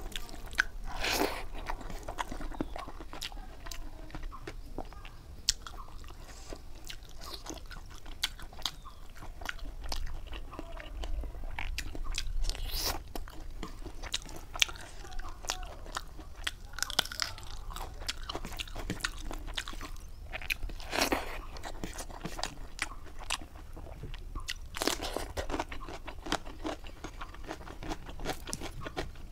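Close-miked eating: chewing with many small mouth clicks and several louder crunchy bites, from rice with fried catfish eaten by hand and a slice of raw cucumber.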